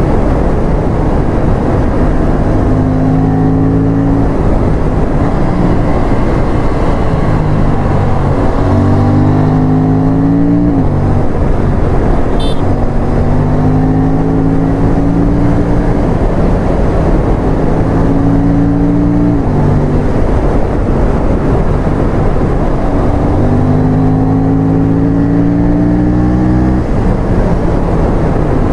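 Aprilia RS457's parallel-twin engine pulling hard on the move, its note climbing steadily in pitch for several seconds and then dropping suddenly, over and over. A steady rushing noise runs underneath.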